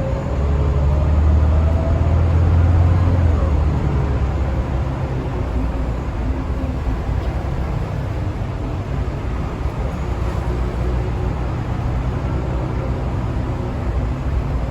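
Scania L94UA bus engine running under load, loudest for the first three seconds or so, then settling to a steadier, slightly quieter run.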